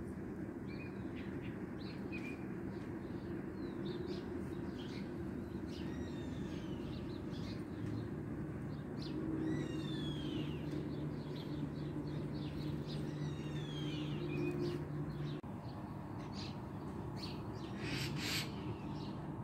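Birds chirping outdoors in repeated short, falling chirps, over a steady low hum. There is a short noisy burst near the end.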